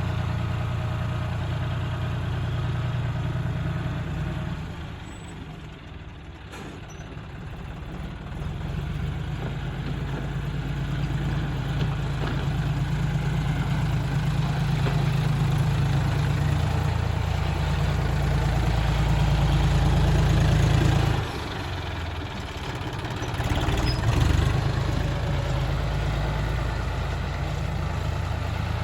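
John Deere 3510 tractor's diesel engine running under work, its level falling away about five seconds in, then building steadily before dropping off sharply about three-quarters of the way through.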